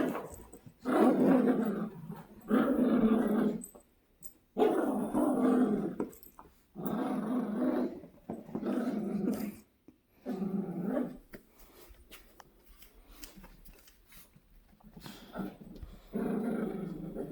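Dogs growling and snarling in a fight, in repeated bursts of about a second each. The bursts thin out and grow quieter about two-thirds of the way through, then return once more near the end.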